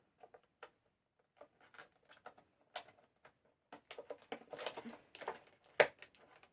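Plastic action-figure packaging being handled: scattered crinkles and small clicks, busier in the second half, with one sharp click near the end.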